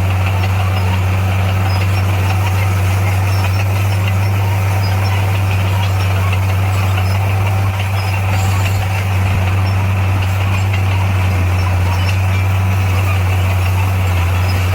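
Motor grader's diesel engine running steadily with a deep, even hum, dipping slightly about eight seconds in.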